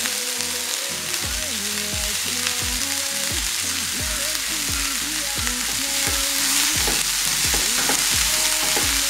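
Sliced onions sizzling in hot oil in a kadai, stirred as they sauté with salt to wilt them faster.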